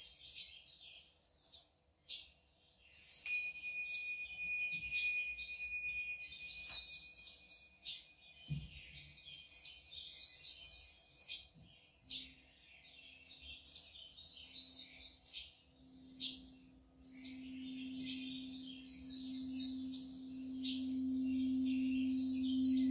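Birds chirping and singing in quick trills throughout. About halfway in, a low, steady singing bowl tone starts, pulsing at first. It then swells until it is the loudest sound near the end.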